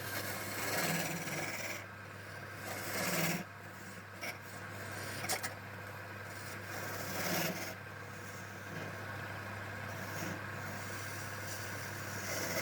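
Wood being rubbed with an abrasive, sanded or rasped in strokes that swell and fade every second or two, over a steady low motor hum.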